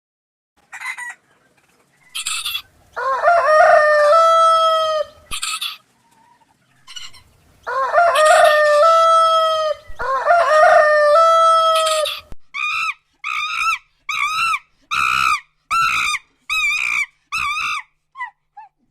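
Rooster crowing three times in long calls that step in pitch. A steady run of short, rhythmic clucking calls follows near the end.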